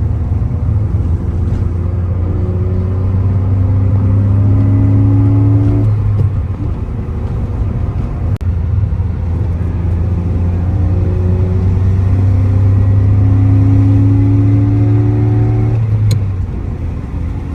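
BMW M54B25 straight-six fitted with an N54 intake manifold, accelerating hard twice. The revs climb for about five seconds, drop off, then climb again for about six seconds before backing off near the end.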